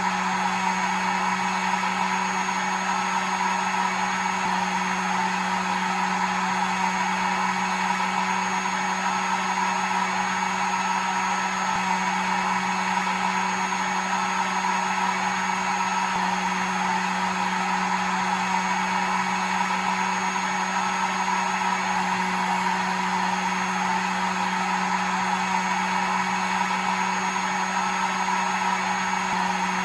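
Hair dryer running steadily: an unbroken whirring rush of air with a low motor hum and a faint high whine.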